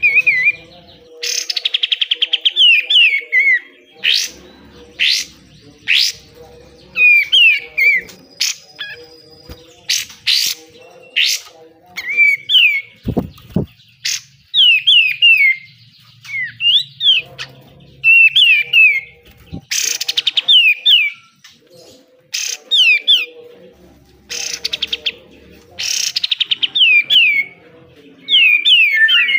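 Kapas tembak (katem) songbird singing its fast, harsh 'besetan' song: short loud phrases repeated every second or two, some rapid buzzy trills and others quick sharp down-slurred whistles. A faint steady hum underlies it.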